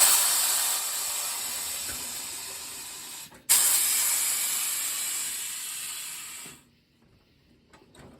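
Compressed air hissing from a pneumatic tire-changing machine in two long blasts, each starting suddenly and fading over about three seconds. The second starts about three and a half seconds in and stops abruptly a little after six seconds.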